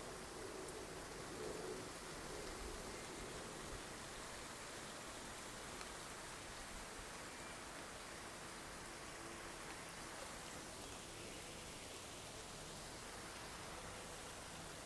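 A steady, soft hiss with no distinct events.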